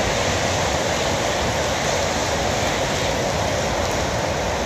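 Heavy downpour of rain on a city street and pavement: a loud, steady hiss.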